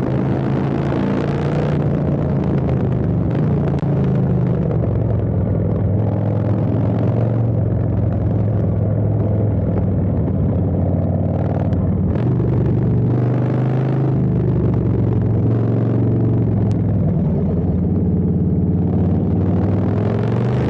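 Custom Harley-Davidson Street Bob's V-twin engine, fitted with a Stage 2 kit and an Arlen Ness air intake, running at a steady idle with short brief rises in revs every few seconds.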